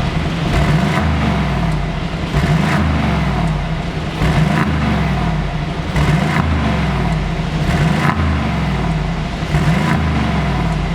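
Mercedes-AMG G63's twin-turbo V8 blipped repeatedly through an aftermarket Brabus-style valved exhaust, the pitch rising and falling with each rev.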